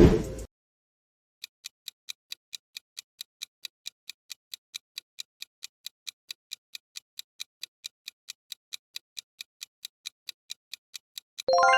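Countdown-timer clock-tick sound effect: crisp ticks about four a second for some ten seconds, after a short loud burst at the start. A bright chime sounds just before the end.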